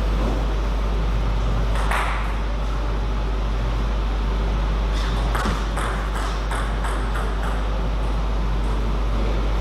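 Table tennis ball clicking off rackets and table: a single hit about two seconds in, then a quick run of hits from about five to seven and a half seconds in, over a steady low hum.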